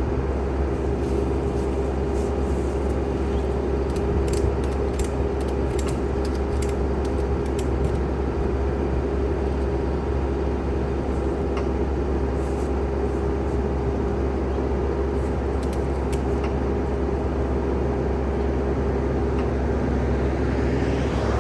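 An engine running steadily at a constant speed, with a few light metallic clicks about four to eight seconds in.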